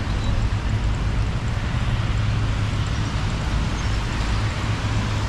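Steady city traffic noise on a wet street: a constant low rumble of vehicles with the hiss of tyres and rain over it.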